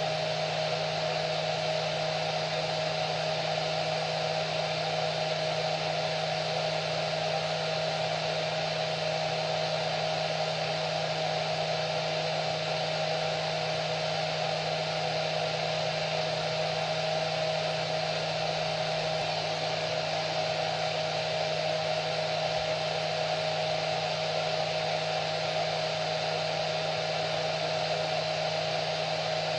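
Hair dryer running steadily: an even rushing of air with a constant whine of the motor and fan.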